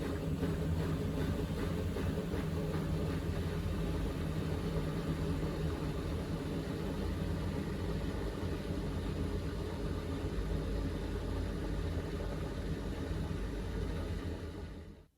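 Miele Navitronic W3985 washing machine in a spin burst during its final spin: a steady motor and drum hum that stops abruptly near the end.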